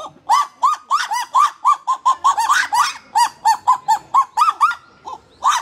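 Kagu calling: a rapid run of short, rising-and-falling notes, about five a second, with a second series overlapping in the middle. The calls thin out and break off near the end.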